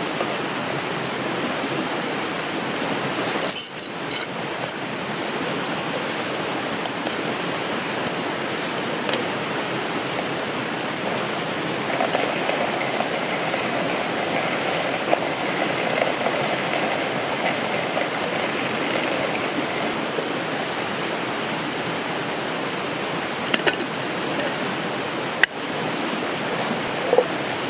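Steady rushing of a river's flowing water, with a few faint clicks near the end.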